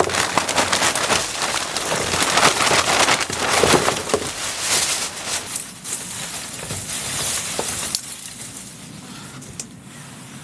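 Dry firewood and brush rustling and crackling as they are pulled out by hand, a dense run of small snaps and scrapes. It grows quieter near the end.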